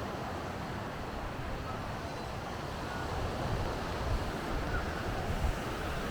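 Steady rush of wind and road noise from a moving motorcycle trike, with low gusts of wind buffeting the microphone from about three and a half to five and a half seconds in.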